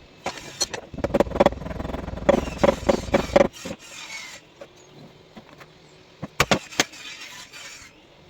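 Bench handling noises: a stretch of knocks and clatter over a low rumble about a second in, then quieter fiddling and two sharp clicks near the end.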